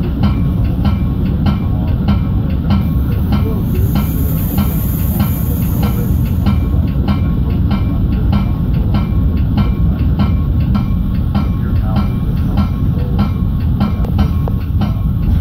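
Metra commuter train running along the track: a steady low rumble with regular wheel clicks, about two to three a second, the clickety-clack of wheels passing over rail joints.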